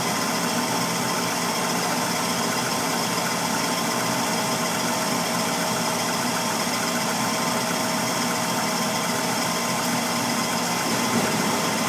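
Gas furnace running with its burners lit: a steady rushing noise with a faint constant hum. The burners are firing normally, with no delayed-ignition bang.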